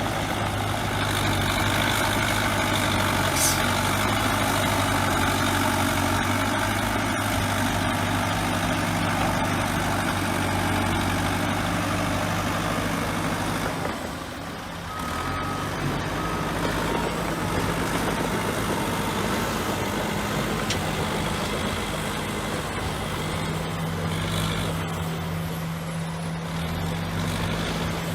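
Heavy bulldozer diesel engine running steadily. It eases off briefly about halfway, then picks up again. Two short faint beeps sound just after the dip.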